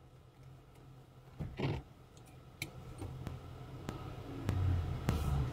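Low steady hum of a car's engine heard from inside the cabin, growing louder near the end, with a dull knock about a second and a half in and several scattered clicks.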